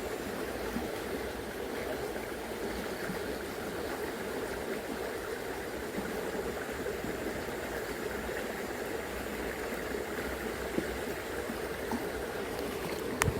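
Shallow, fast river current rushing steadily over its bed, with a couple of sharp clicks near the end.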